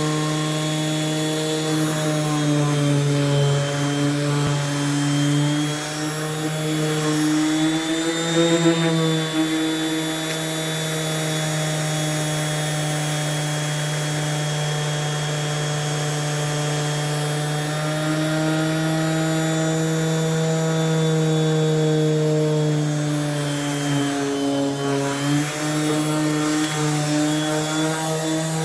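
Electric sander running continuously on a wooden tabletop, stripping the old finish. Its motor hum holds steady but wavers slightly in pitch as pressure on the wood changes.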